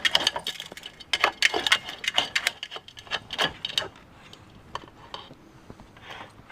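Rapid, irregular clicking and tapping, dense for about the first four seconds and then thinning to a few scattered faint ticks.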